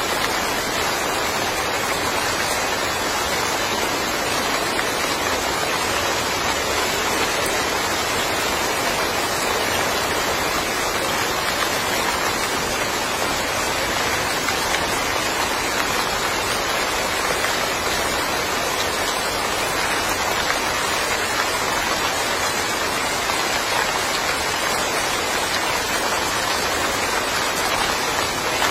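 Steady rain falling, a dense even hiss of drops on the ground and surfaces that neither builds nor eases.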